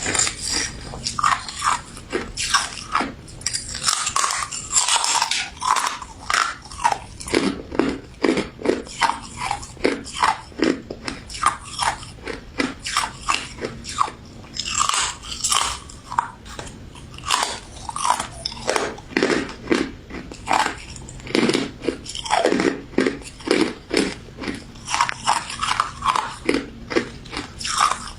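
Person biting and chewing a crunchy pink crystal snow ice dessert: rapid, irregular crisp crunches, several a second.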